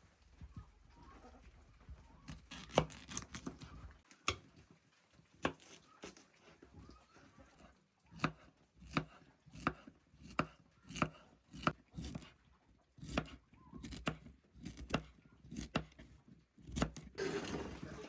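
Chopping: a few scattered sharp strikes, then a steady run of chops about one and a half to two a second from about eight seconds in.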